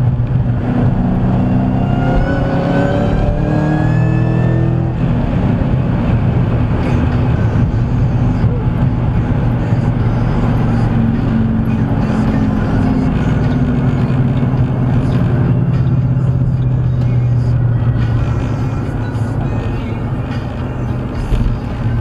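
Cabin sound of a 2009 Shelby GT500's supercharged V8 running at highway speed. It carries a rising whine as the car accelerates over the first few seconds, then drones steadily. Near the end the engine note fades as the car eases off and slows down.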